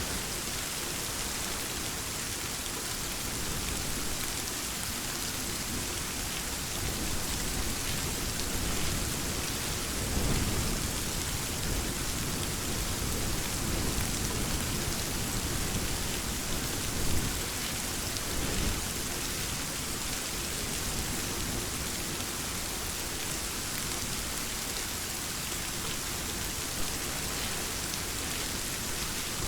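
Steady heavy rain falling, an even hiss of drops, with low rumbles of distant thunder swelling twice, about a third and about two thirds of the way through.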